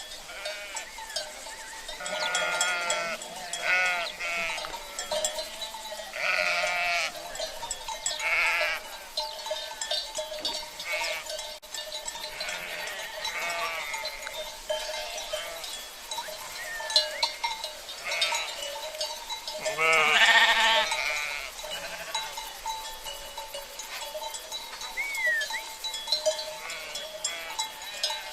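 Sheep bleating again and again, the loudest call about two-thirds of the way through, over the steady clank and ring of cowbells and the even rush of a river.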